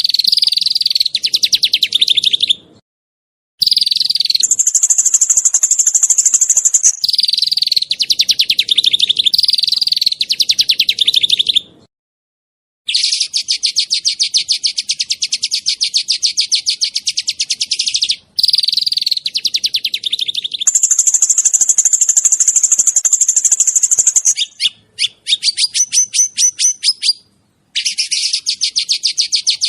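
Small songbirds singing sharp, rapid-fire trills: long phrases of fast-repeated high chirps, some pitched lower and some higher and more piercing, broken by short gaps of silence.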